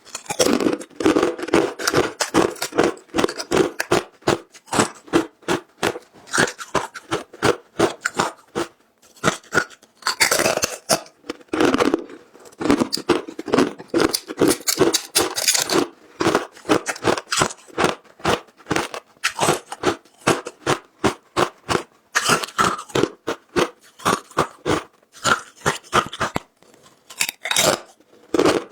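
Close-miked crunching of frozen matcha ice being bitten and chewed: a rapid run of sharp crunches, several a second, broken by a few short pauses.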